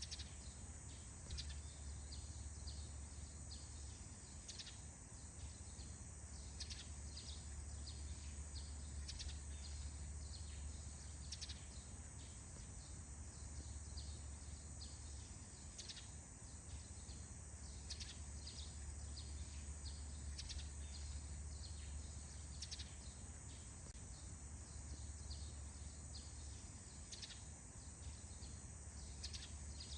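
Faint morning forest ambience: birds giving frequent short, high chirps, scattered irregularly over a steady high hiss and a low rumble.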